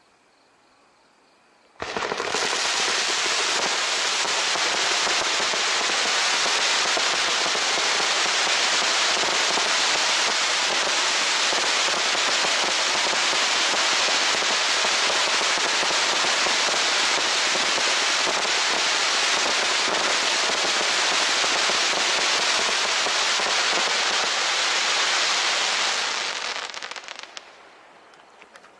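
Ginseng Fireworks AC130F firework cake firing: a dense, unbroken crackle of rapid shots. It starts suddenly about two seconds in and goes on evenly for over twenty seconds, then thins out and dies away near the end.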